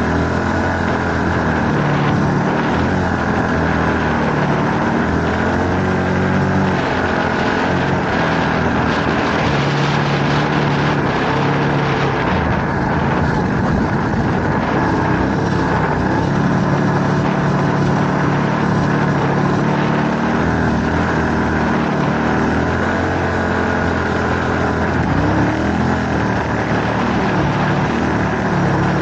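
Enduro motorcycle engine running under load through soft, loose sand, its revs rising and falling again and again as the rider works the throttle.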